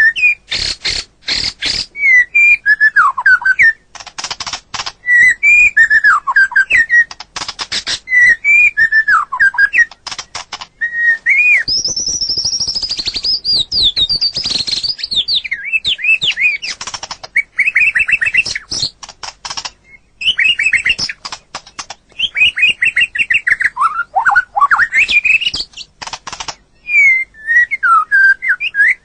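White-rumped shama (murai batu) singing its loud, varied song: whistled phrases that swoop up and down, broken by rapid dry rattles and clicks. About twelve seconds in there is a higher, buzzy stretch lasting a few seconds before the whistled phrases return.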